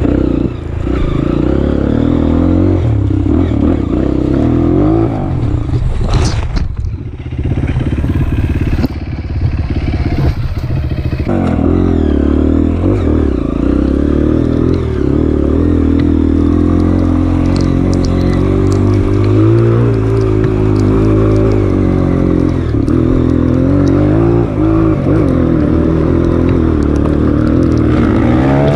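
Honda CRF230F's single-cylinder four-stroke engine running on a trail ride, its revs rising and falling as the bike is ridden. About six seconds in the engine eases off for around five seconds before pulling again.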